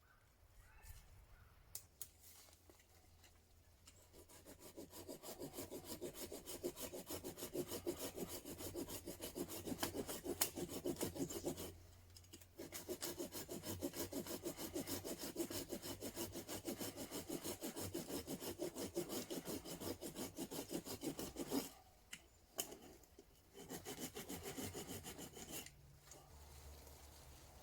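Hand saw cutting through wood in quick back-and-forth rasping strokes, stopping briefly twice.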